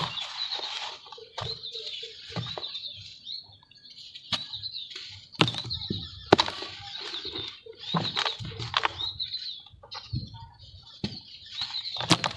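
Lumps of red dirt being crushed and crumbled by hand: irregular sharp cracks and crackling over a gritty rustle, with a few soft thuds.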